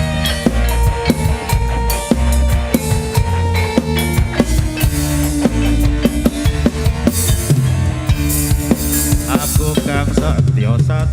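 Live band playing an instrumental passage: a drum kit keeps a steady beat with bass drum and snare under sustained bass and melody notes.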